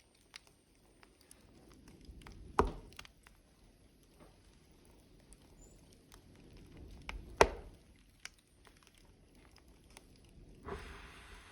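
Burning logs in a wood fire crackling, with many small ticks and two loud sharp pops, one about two and a half seconds in and one near the middle, over a low flickering rumble of the flames. A soft hiss starts near the end.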